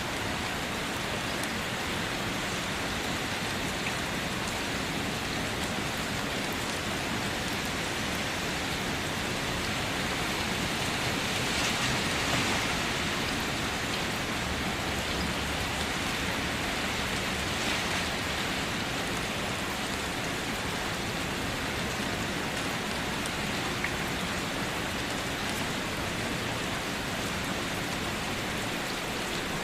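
Steady rain falling on surfaces, an even hiss with scattered individual drops, swelling slightly about twelve seconds in.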